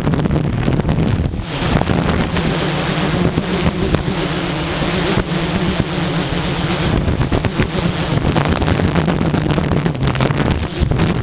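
DJI S1000 octocopter's motors and propellers humming steadily in flight, with strong wind buffeting the microphone. A thin high whine comes in about two seconds in and fades out near eight seconds.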